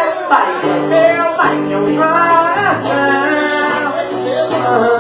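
Live bar-style music: a voice singing long held notes over strummed acoustic guitar.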